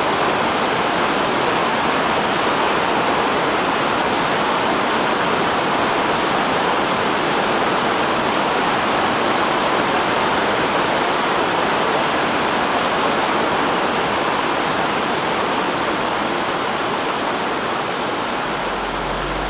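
Fast-flowing stream water rushing steadily, easing slightly near the end.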